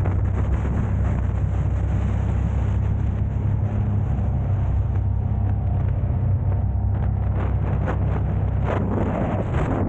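Car driving: a steady low drone of engine and road noise, with short gusts of noise near the end.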